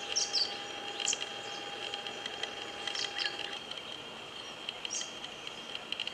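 Short, high-pitched bird chirps every second or two, over a steady high hum. A lower steady tone stops about halfway through.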